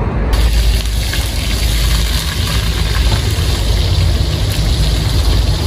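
Beaten egg tipped into hot oil in a wok, starting a loud, steady sizzle about a third of a second in, over a continuous low rumble.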